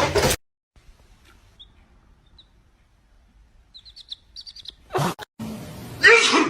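A small bird giving a quick run of short, high chirps about four seconds in. A loud noisy burst cuts off just after the start, and a louder pitched, voice-like call comes near the end.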